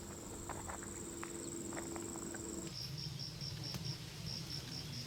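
Insects calling: a continuous high trill that stops abruptly a little past halfway, giving way to cricket-like chirping at about five chirps a second with a low hum underneath.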